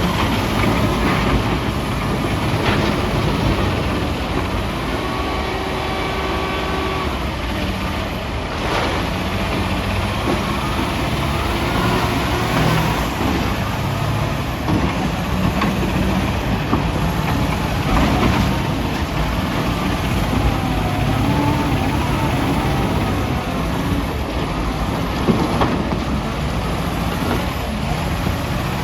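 Heavy diesel engines of a wheel loader and dump truck running steadily under load, with a few sharp knocks scattered through.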